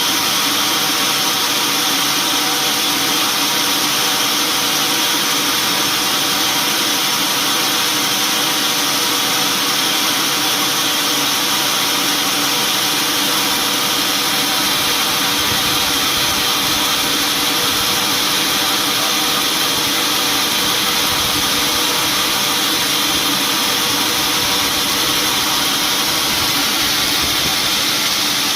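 Sawmill machinery running steadily: a loud, continuous mechanical whine with several steady tones over a hiss.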